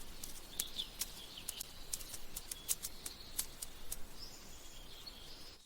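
Bird chirps with many short, sharp clicks scattered through them, over a faint background hiss.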